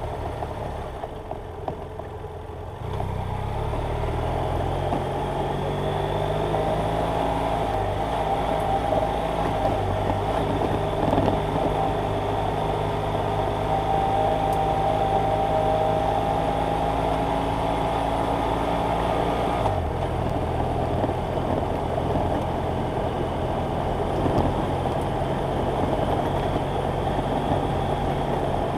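BMW F800GS Adventure's parallel-twin engine running under way, picking up about three seconds in and then holding a fairly steady note, with a brief break about twenty seconds in.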